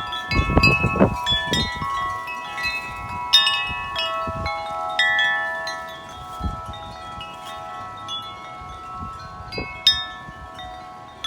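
Several large tubular wind chimes ringing in strong, gusting wind, the tubes struck over and over so that many tones overlap and ring on. Wind gusts buffet the microphone, mostly in the first two seconds.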